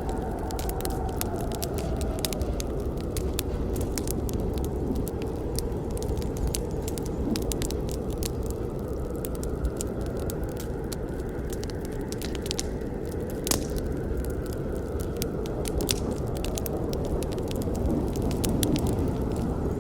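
Campfire burning: a steady low rush of flames with frequent small crackles and pops, one sharper pop a little past the middle.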